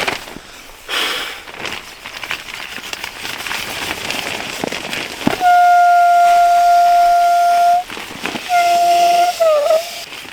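Air whistling through a sleeping-pad inflator's valve as the pad is being aired up: a loud, steady high whistle held for about two and a half seconds, then a shorter one that drops in pitch at its end. Before it, a few seconds of rustling noise.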